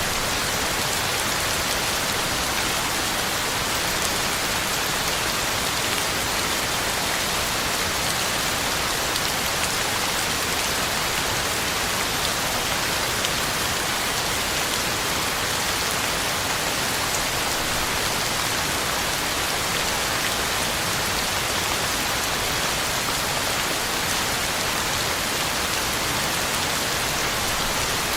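Heavy rain falling steadily, a dense even hiss of drops striking the ground and leaves, with no change in strength.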